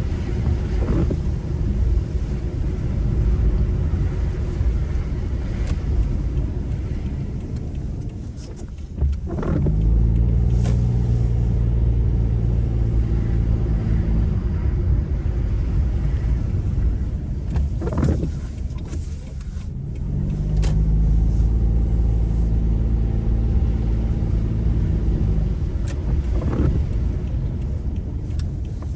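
Car driving in the rain: continuous engine and tyre rumble, the engine note settling into a steady pitch for a few seconds at a time and changing about a third and two-thirds of the way in as the speed changes.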